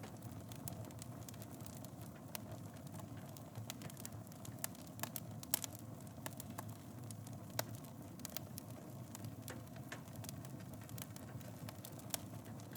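Fireplace wood fire burning with a steady low rush of flame and irregular sharp crackles and pops, a few louder pops about five and a half seconds in and near seven and a half seconds.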